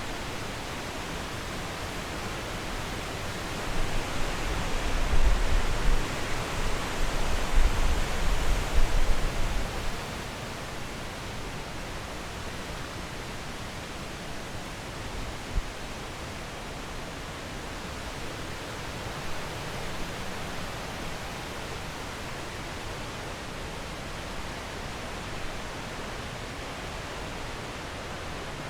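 Steady rush of flowing water, from a stream or waterfall. Irregular low rumbling swells over it from about four to ten seconds in.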